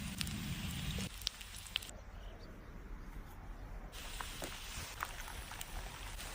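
Faint sizzling of food cooking, with scattered small pops; the hiss drops away for about two seconds in the middle.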